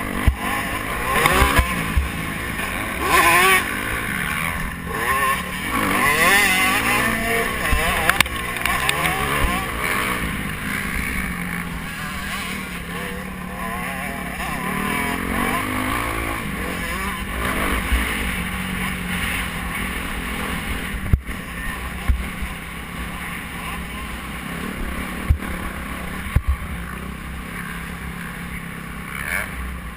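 Motocross bike engines revving, their pitch rising and falling, strongest in the first ten seconds and fainter after, over a steady rushing noise, with a few sharp knocks later on.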